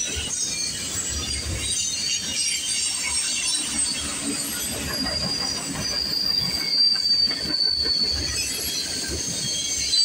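Freight train of steel coil cars rolling past, its wheel flanges squealing in thin high tones over the steady rumble of the wheels on the rails; the squeal is strongest a few seconds in.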